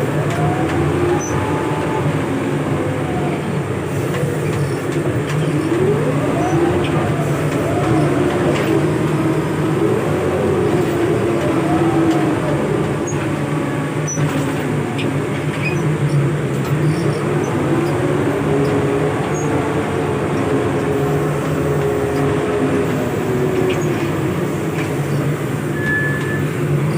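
Heavy machinery's diesel engine running in heavy rain, its pitch rising and falling repeatedly over a steady low hum.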